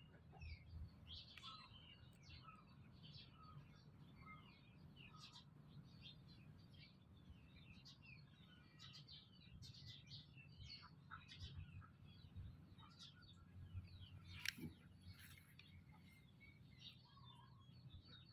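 Faint, dense chirping of small birds, many short high calls overlapping, over a low background hum, with one sharp click late on.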